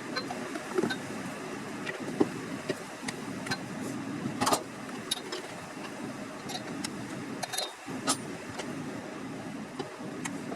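A car engine running steadily, with scattered light clicks and knocks over it; the sharpest knock comes about halfway through.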